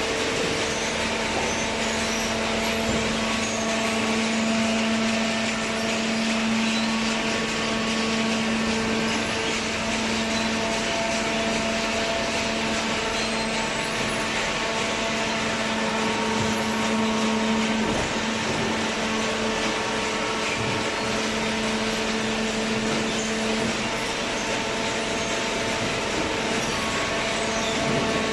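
Hydraulic cardboard baler running: its motor and pump give a steady hum with a noisy whir behind it. One hum tone drops out a few seconds before the end.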